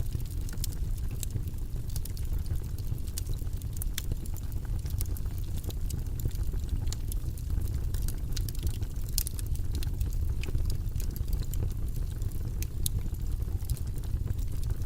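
Steady low, rumbling background noise track, with faint, irregular clicks scattered through it.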